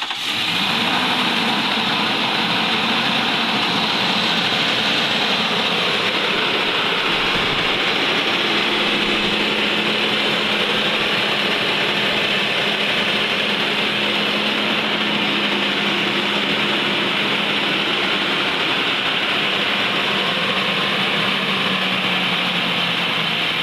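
Nissan Patrol Y62's VK56 5.6-litre V8 idling steadily just after start-up, a test run following a VVEL actuator motor seal replacement.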